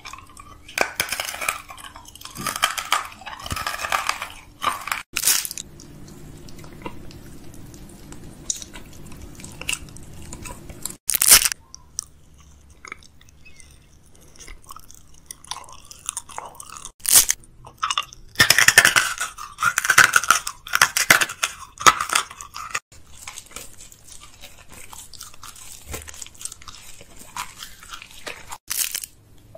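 Close-miked chewing and crunching of candy in a mouth, irregular and wet. There is a sharp crunch about eleven seconds in and a longer loud run of crunching a little past the middle.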